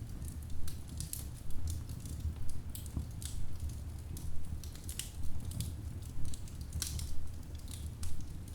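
Wood fire burning in a fireplace, crackling with irregular sharp snaps and pops, a strong one every second or so and smaller ticks between, over a steady low rumble of the flames.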